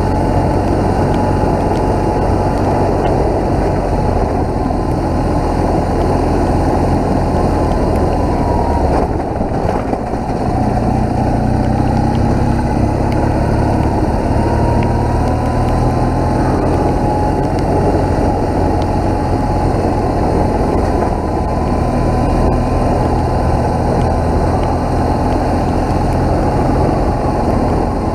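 BMW motorcycle engine running under way, mixed with the rush of riding wind. About nine seconds in the engine briefly eases off, then its pitch climbs as the bike speeds up again.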